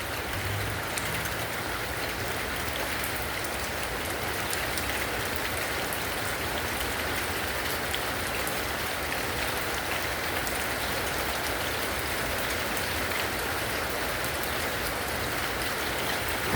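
Steady rain falling during a thunderstorm, an even hiss with scattered sharp drop ticks.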